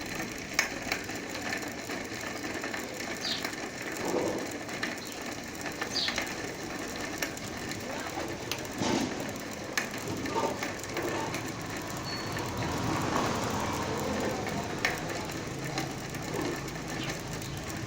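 A hand-spun bicycle wheel turning freely on its hub, with irregular clicking and crackling from the hub as it spins. The mechanic diagnoses this as a broken ball bearing with a bad cone in the hub.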